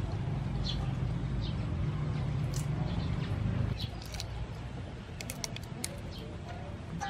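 Birds chirping now and then over a low steady rumble, which drops off about four seconds in. Near the end a quick run of sharp clicks comes from raw shrimp being peeled by hand in a bowl of water.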